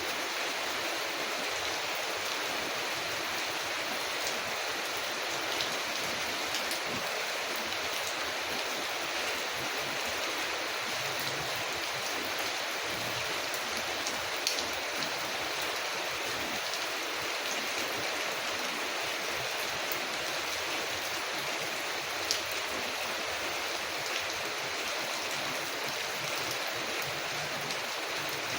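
Steady rain falling on a window, an even hiss that does not change, with a few single sharp clicks scattered through it.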